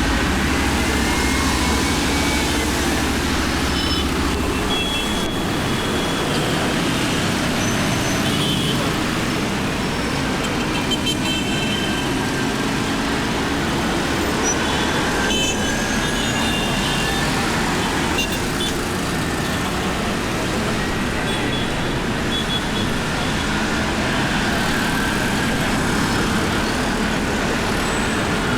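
Motorcycle engine running while riding in city traffic, its pitch rising and falling with the throttle, over steady road and traffic noise.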